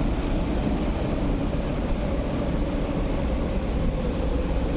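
Steady low rumble and hum of electric trains at an open-air station platform: a train standing at the platform, with another approaching from far down the line.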